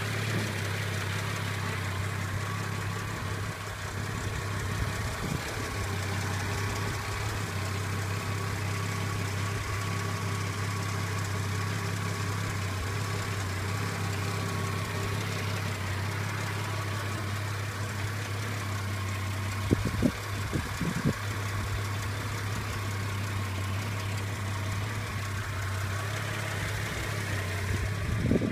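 1971 Chrysler Valiant VG's 215 Hemi straight-six engine idling steadily, with a couple of sharp knocks about twenty seconds in.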